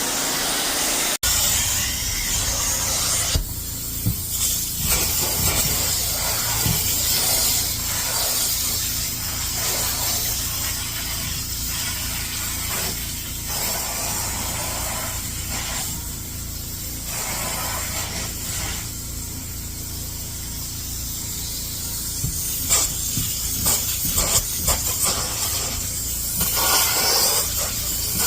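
Upholstery extractor at work on cushion fabric: a steady motor hum with a hiss of spraying and suction that swells and fades as the tool makes its passes. There is an abrupt cut about a second in.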